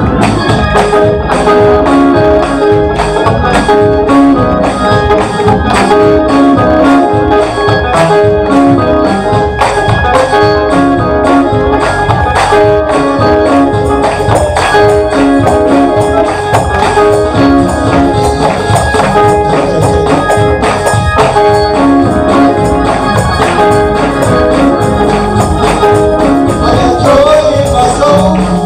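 Live church praise music with a steady beat.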